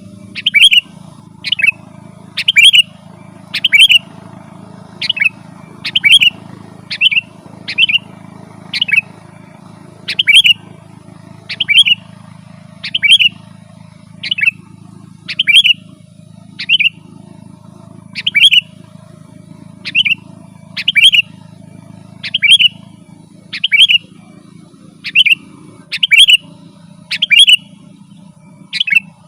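Sooty-headed bulbul (kutilang) calling over and over, one short, sharp, sweeping note about every second, over a faint steady low hum.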